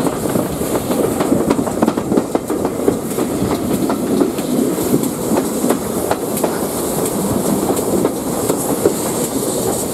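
Passenger train coaches running along the line, their wheels clicking irregularly over the rail joints, with a steady rush of air at an open carriage window.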